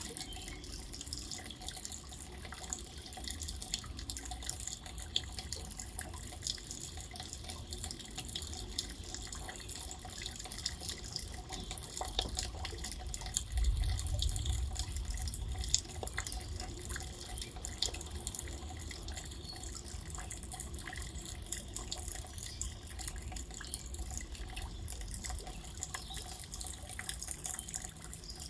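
Steady rain with many separate drops dripping, and a low rumble lasting a couple of seconds about halfway through.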